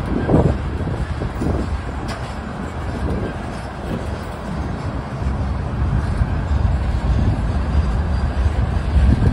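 Freight train of steel hopper cars rolling past, with a steady low rumble of wheels on rail and irregular louder clunks as wheel sets pass, and a sharp click about two seconds in.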